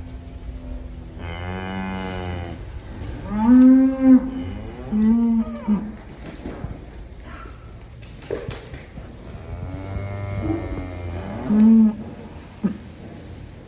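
Dairy cows mooing: several long, low calls in a row, the loudest about three and a half seconds in and another near the end, over a steady low hum.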